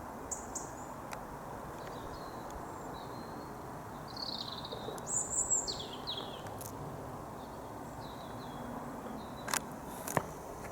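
Birds chirping, a short cluster of high, quick, falling chirps in the middle, over a steady background hum of outdoor noise. Two sharp clicks near the end.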